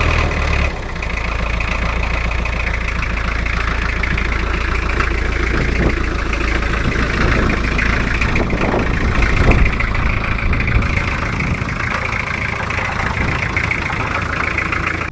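An engine running at a steady idle.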